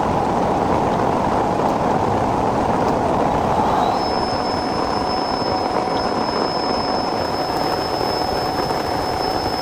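Heavy rain falling steadily. A thin, high, steady tone comes in about four seconds in, over a fainter lower steady tone.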